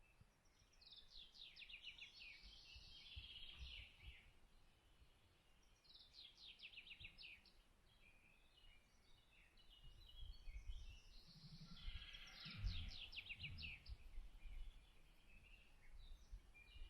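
A songbird singing three trilled phrases of rapid notes, a few seconds apart, over faint outdoor ambience. Faint low rumbling comes in near the middle.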